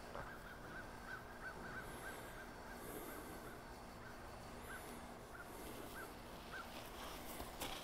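Faint bird calls: a quick run of short repeated chirps over the first two seconds, a few more spaced chirps later, and a couple of thin, high warbling calls.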